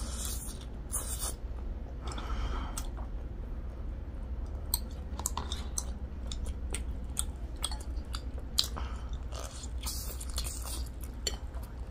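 Close-miked eating sounds: mouths chewing and slurping noodles, with many small wet clicks and a few short slurps.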